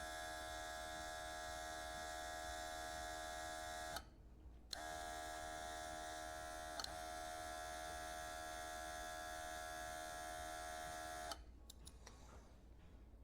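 Small motor-driven compressor of a cordless airbrush running with a steady buzz. It cuts out about four seconds in, starts again a moment later, and stops near the end.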